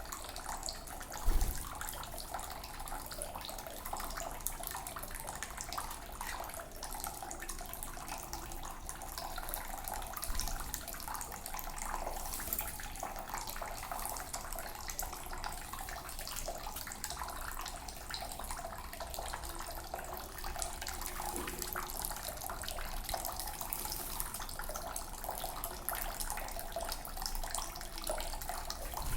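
Water running steadily from a tap for a pet bird's bath, with a short thump about a second in.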